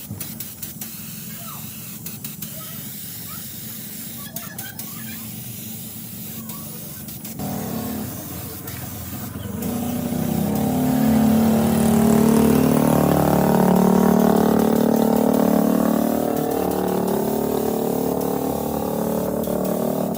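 Rebuilt Hyundai six-cylinder diesel engine starting suddenly about seven seconds in, getting louder around ten seconds, then running steadily. Before it starts there is a hiss with scattered clicks.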